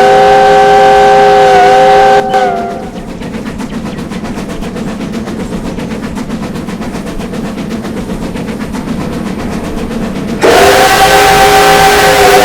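A locomotive's chime whistle sounds a long chord blast, then the train runs along the track with a steady rumble. A second long whistle blast comes about ten seconds in, this time with a loud hiss.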